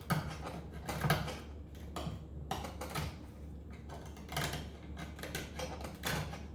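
A hand blade scraping and chipping brittle old glue off the end of a wooden piano keystick, heard as a series of irregular scraping strokes and clicks.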